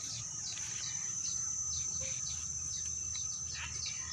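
Birds chirping in quick repeated short calls, about three a second, over a steady high-pitched insect drone.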